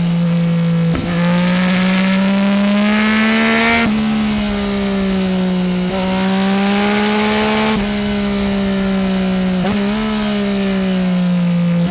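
Yamaha Tracer 900 GT's three-cylinder engine and full aftermarket exhaust (no dB-killer) under way. The note climbs and falls with the throttle, with brief breaks in it roughly every two seconds, about a second in and near four, six, eight and ten seconds.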